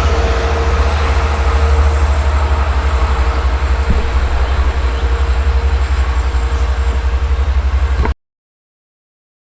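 Long Island Rail Road train with DM30AC dual-mode diesel locomotives running, a heavy steady rumble with a constant tone above it. The sound cuts off abruptly about eight seconds in.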